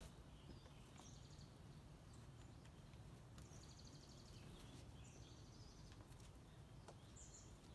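Near silence with faint bird chirps and short trills several times, a few light clicks, and a low steady rumble underneath.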